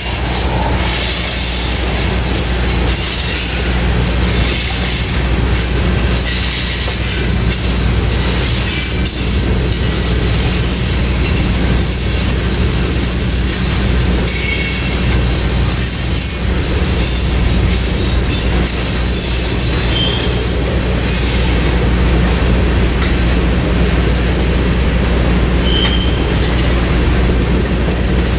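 Loaded freight cars (tank cars and coil cars) rolling past on jointed steel rail: a steady rumble and clatter of wheels on track, with a few brief high-pitched wheel squeals.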